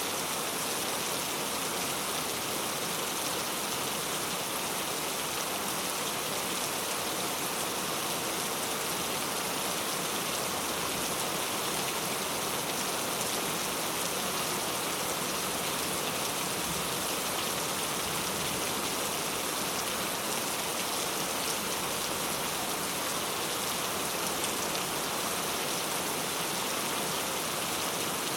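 Steady rain falling, a dense even patter with no breaks or single loud drops.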